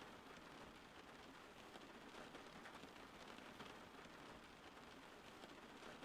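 Faint, steady rain, a soft hiss dotted with many small drop ticks.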